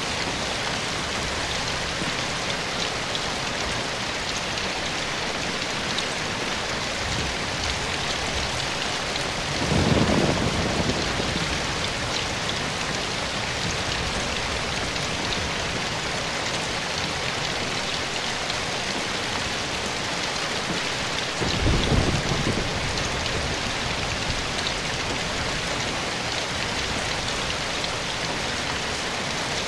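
Steady rain falling in a forest. Two brief low rumbles rise over it, about ten and twenty-two seconds in.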